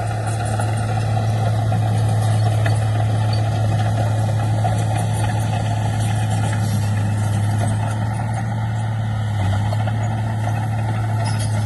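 Heavy diesel engine of earthmoving machinery running steadily under a constant low hum, with no change in engine speed.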